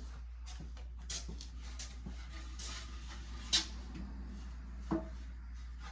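Scattered light knocks and clicks from pieces being handled at a workbench, with two sharper knocks in the second half, over a steady low hum.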